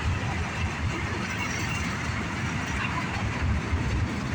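Freight train cars rolling past, a steady rumble of steel wheels on rail.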